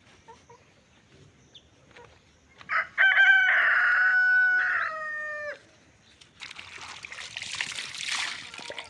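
A rooster crows once, a short note then a long held call that drops in pitch as it ends. About a second later a quieter rustling hiss follows for a couple of seconds.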